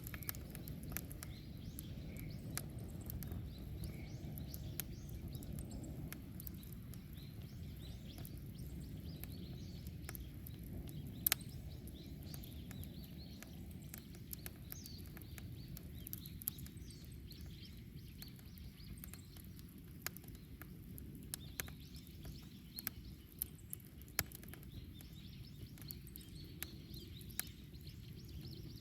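Wood bonfire burning: a steady low rush of flame with scattered sharp crackles and pops of burning wood, one loud pop about 11 seconds in and a run of pops in the last third.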